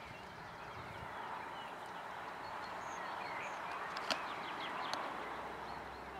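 Birds chirping and calling through a steady outdoor hiss, with two sharp clicks about four and five seconds in.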